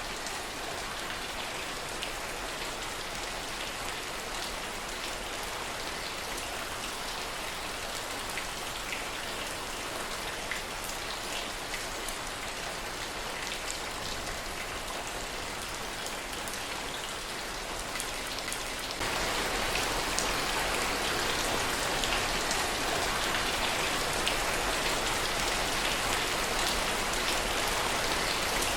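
Steady rain falling, a continuous hiss dotted with sharp individual drop ticks. About two-thirds of the way in it abruptly becomes louder and stays heavier.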